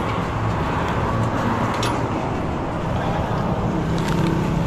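A motorcycle engine idling close by under a steady rush of passing road traffic, with a few light clicks.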